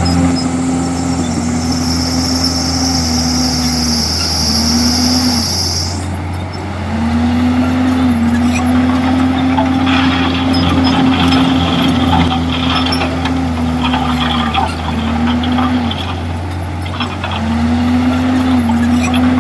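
Komatsu D51EX crawler bulldozer's diesel engine working under load, its steady note sagging briefly several times as the load comes on and eases. A bright high hiss runs over it for the first six seconds and then cuts off sharply, and there is some clatter about ten to thirteen seconds in.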